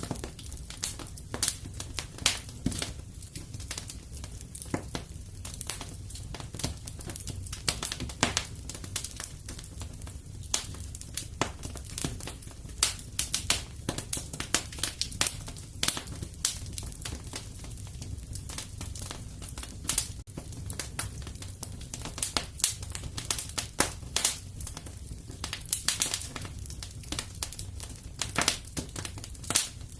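Wood fire burning in a fireplace: a low, steady rumble of flames with frequent sharp, irregular crackles and pops from the burning logs.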